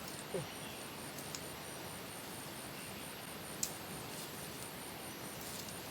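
A high, thin insect call pulsing evenly about four times a second over a steady hiss of outdoor background noise, with a few faint clicks.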